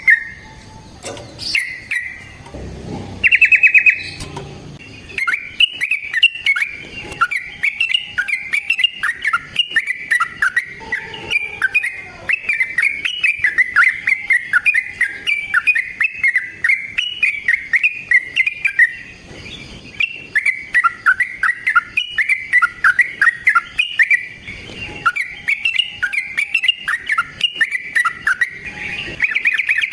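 Yellow-vented bulbul (trucukan) singing long, rapid runs of chattering chirps, with short pauses early on and again about two-thirds of the way through.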